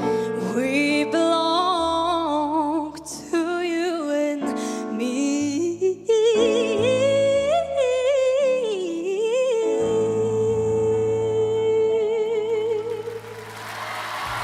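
A solo voice singing a wordless, ornamented melodic line with vibrato over sustained piano chords, then holding one long note for about seven seconds in the second half. Near the end the note gives way to a rising wash of audience applause and cheering.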